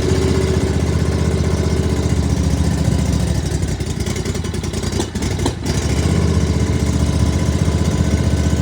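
Kawasaki FR691V V-twin engine on a zero-turn mower running just after a cold start on starting fluid with the choke on. It dips for a couple of seconds midway, with a couple of clicks about five seconds in, then settles into a steady run.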